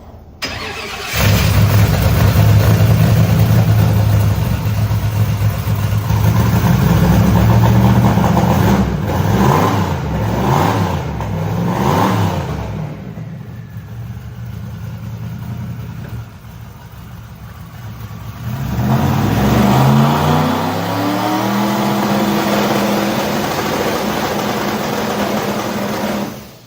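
Drag-race truck engine starting, revving and being held on the two-step launch limiter for a check that it still bangs and pops. Sharp pops come in a cluster about ten seconds in. The engine then settles to a lower idle, rises again and holds a steady higher speed, and shuts off abruptly near the end.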